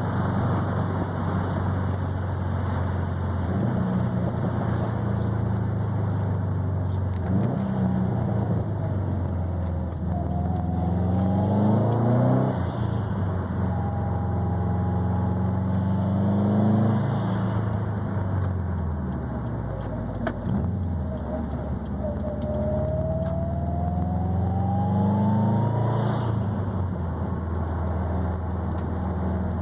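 2020 Subaru WRX STI's turbocharged flat-four through an ETS quiet catback exhaust with a resonated mid-pipe, driving along. Three times the engine note climbs under acceleration and then drops at a gear change: about twelve, seventeen and twenty-six seconds in.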